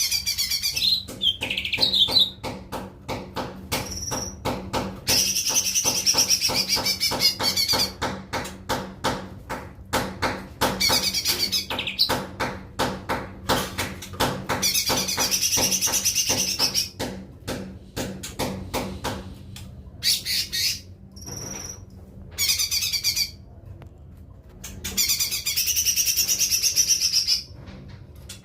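Cucak ijo mini (a small leafbird) singing in repeated bursts of fast, warbling high notes, each burst lasting a second to a few seconds. Rapid sharp clicks fill the pauses between the bursts.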